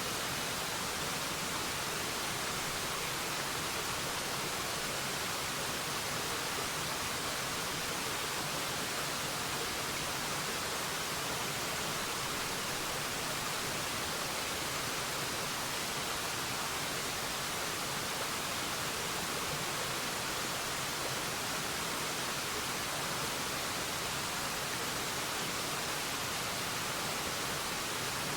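Steady, unbroken rush of a waterfall, an even wash of sound weighted toward the high end that never changes in level.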